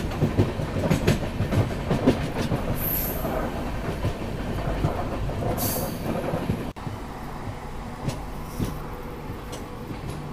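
Passenger train running on the line, its wheels clicking over rail joints above a low rumble. About two-thirds of the way in, the sound cuts abruptly to a quieter, steadier rumble with a low hum.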